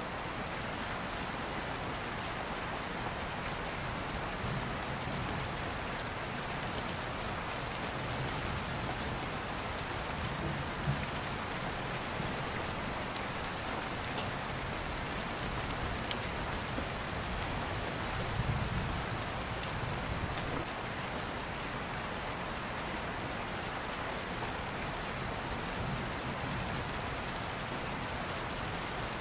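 Steady rain falling on a surface, with low rumbles of distant thunder swelling twice, about a third of the way in and again past the middle.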